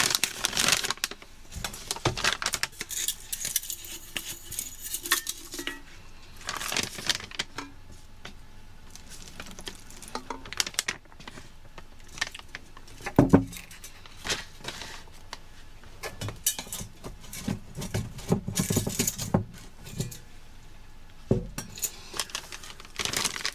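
Handling of an MRE flameless ration heater and its packets: plastic crinkling, small taps and clinks scattered throughout, with one louder knock about 13 seconds in.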